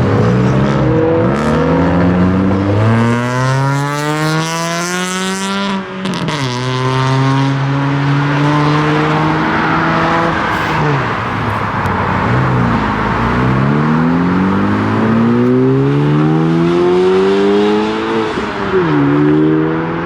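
A car engine revving hard, its pitch climbing for several seconds and then dropping sharply about six seconds in. It holds steady, dips, climbs again and drops once more near the end.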